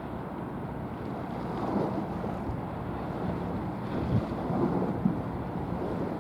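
Wind buffeting the microphone in irregular gusts, over a low steady rumble of a passing vessel and water.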